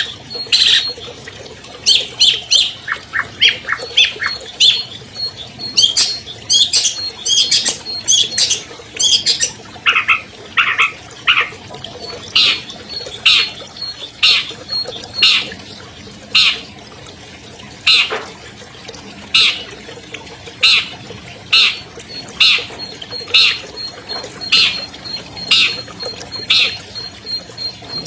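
Long-tailed shrike (cendet) singing a loud string of short, harsh notes: a quick, varied chatter in the first half, then an even series of one to two calls a second. A faint, steady high dotted note runs behind it.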